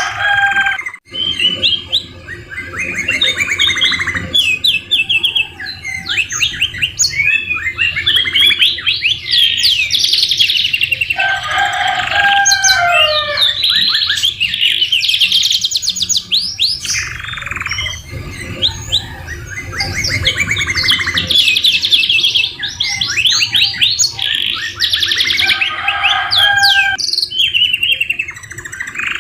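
Domestic canary singing a long, almost unbroken song of fast trills and rolls, its phrases mixed with borrowed white-rumped shama (murai batu) notes, with a couple of brief pauses.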